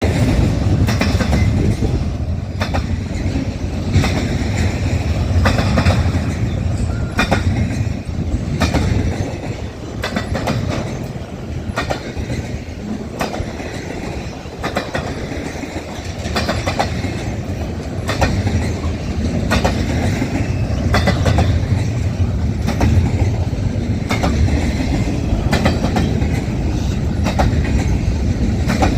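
Train running over rough, badly worn track: a steady low rumble broken by irregular clacks and knocks from the wheels at joints and uneven rail.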